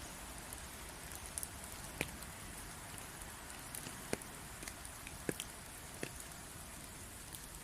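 Steady rain falling, with a few louder single drips scattered through it.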